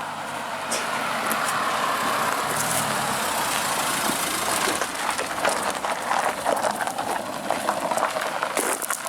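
A car drawing up close with its engine running and tyre noise, then, from about halfway, a run of sharp crunching and crackling clicks.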